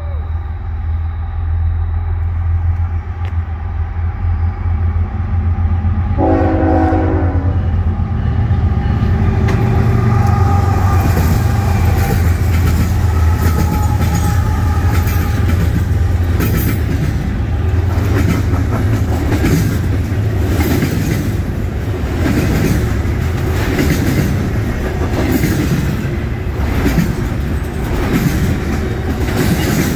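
Freight train led by NS 8025, a GE ES44AC diesel locomotive, approaching and passing close with its diesel engines running. About six seconds in its air horn sounds one blast of about two seconds. The double-stack intermodal cars then roll past with a repeated clatter of wheels over the rails.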